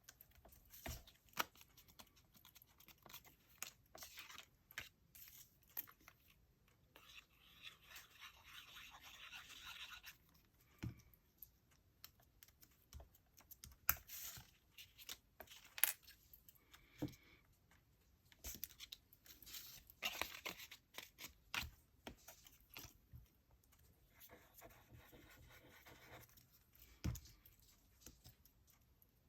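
Quiet paper handling on a craft table: scattered scratches, rustles and light taps. Twice, about seven seconds in and again near the end, there is a few seconds of steady rubbing on paper.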